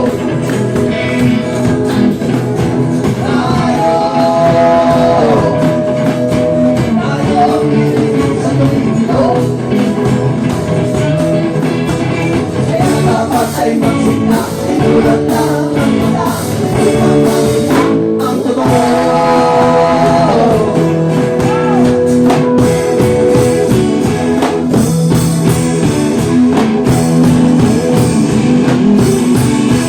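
A band playing a song: singing over guitar, with a steady rock-style accompaniment.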